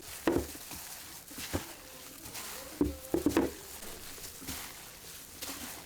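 A few sharp knocks and taps. The loudest is about half a second in, and a quick cluster of three comes around three seconds in.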